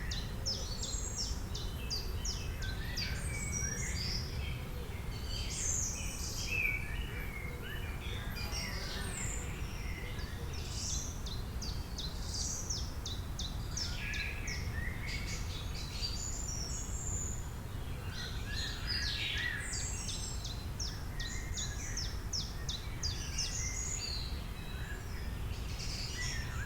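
Several birds chirping and calling, with fast runs of short repeated notes, over a steady low rumble.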